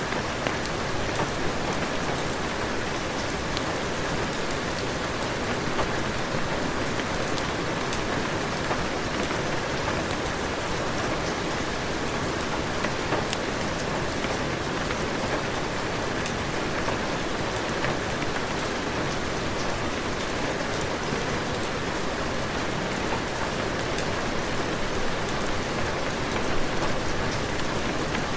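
Heavy rain falling steadily, an even hiss dotted with sharp ticks of drops hitting nearby surfaces.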